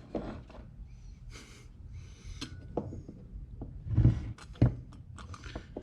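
Scattered clicks and taps of small carburetor parts being handled on a bench during a teardown, with two louder knocks about four seconds in.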